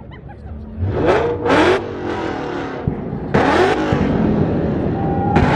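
A car engine revved hard in four blips, its pitch climbing and dropping with each, with a sharp pop about three seconds in.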